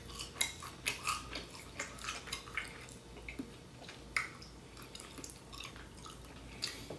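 Close-up mouth sounds of a person eating seafood boil dipped in sauce: wet chewing and lip-smacking, a run of short sticky clicks that thins out in the second half.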